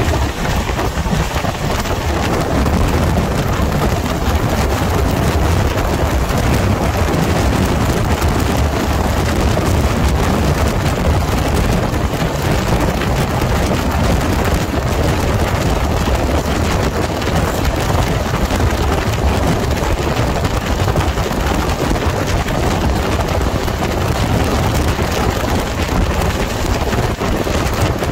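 Steady rush of wind and wheel-on-rail rumble from a passenger train running at high speed, heard from outside the side of its coach, with heavy wind buffeting on the microphone.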